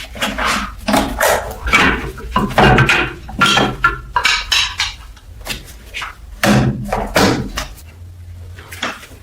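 Irregular knocks and clinks of hard objects handled on a workbench, some with a short metallic ring, coming thick for the first few seconds, then again a little past halfway, with a few near the end.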